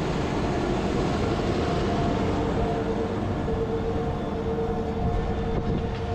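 Fendt 828 Vario tractor's diesel engine running steadily under load while pulling a plow, with a steady whine over the engine noise.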